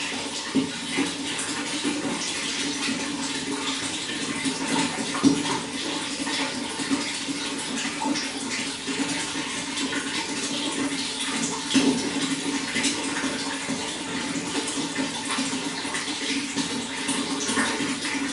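Running water flowing steadily, with frequent small irregular splashes throughout.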